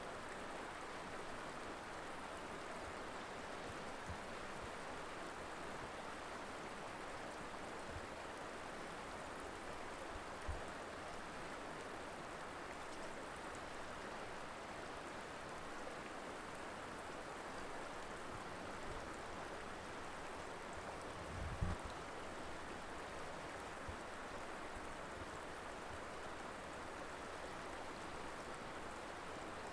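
Mountain river water flowing in a steady, even rush. Two brief low thumps break in, about ten seconds in and again about twenty-one seconds in.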